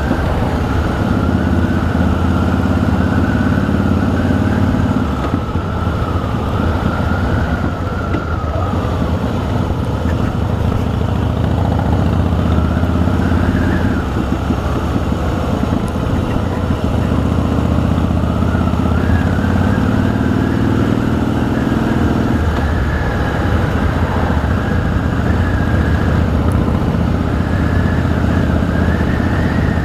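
Harley-Davidson V-twin motorcycle engine running steadily while riding at low town speed. The engine note swells and then drops off abruptly about three-quarters of the way through, as at a throttle or gear change.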